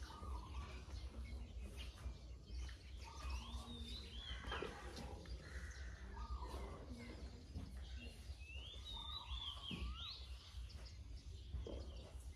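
Birds chirping and calling, short rising-and-falling calls in bunches, over a steady low background rumble.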